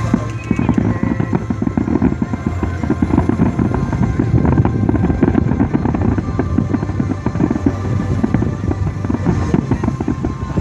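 Fireworks going off in a fast, dense series of bangs and crackling pops, with music playing underneath.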